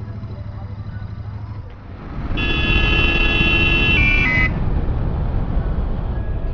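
Road traffic heard from a motorcycle: a steady engine hum, then a louder rumble from about two seconds in. Over the rumble a vehicle horn sounds for about two seconds, stepping down in pitch just before it stops.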